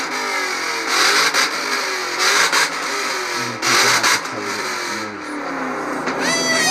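Several car engines revving hard together in a rev contest, pitch climbing and falling with a few sharp throttle blips about a second apart. It is crazy loud.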